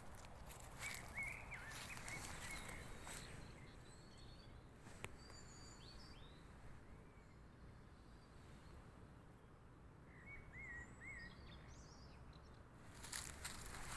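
Faint birdsong: short wavering chirps from small birds, in a few groups, over a low steady outdoor background noise. Brief crackling rustles come near the start and again near the end.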